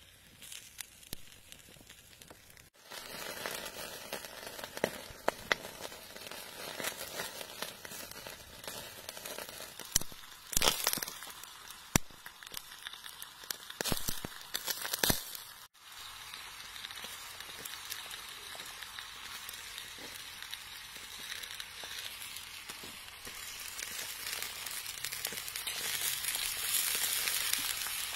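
Heart and bell peppers sizzling on a hot stone slab over a wood fire: a steady frying hiss with scattered sharp pops and crackles, thickest in the middle, and two brief dropouts.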